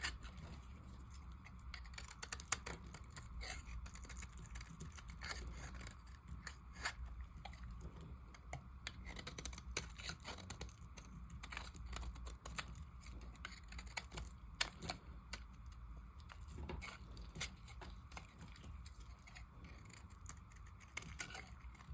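Knife cutting into dry soap: a run of small, irregular crisp clicks and crackles, over a low steady hum.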